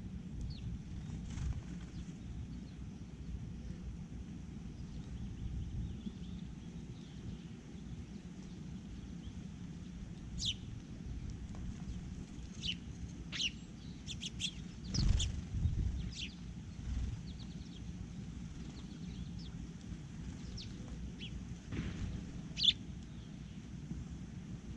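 Short, high bird chirps and calls come scattered and irregular, busiest in the middle and again near the end, over a steady low outdoor rumble. There is a single dull thump about fifteen seconds in.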